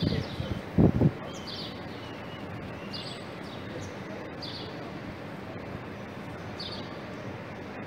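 Small birds giving short high chirps every second or two over a steady hum of street noise, with a short low rumble about a second in.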